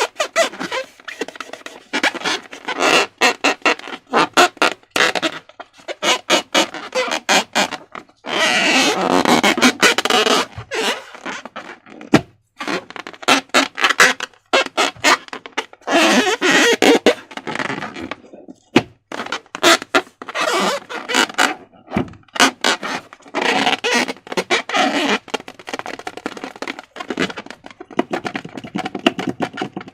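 Slime being squeezed and worked by hand, a dense run of sticky clicks and crackles broken by longer squelching bursts.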